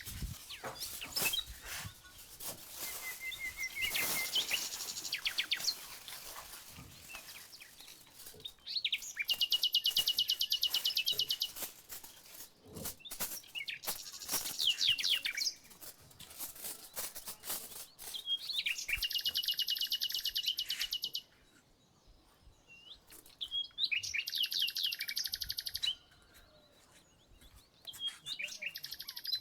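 A songbird singing loud, rapid trills in phrases of about two to three seconds, repeated every four to five seconds. Scattered clicks and knocks sound in the first few seconds.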